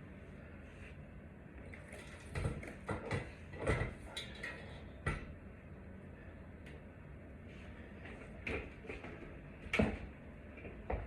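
Scattered clicks, taps and rustles of hands handling electrical wires and small tools, in two clusters, the sharpest knock near the end.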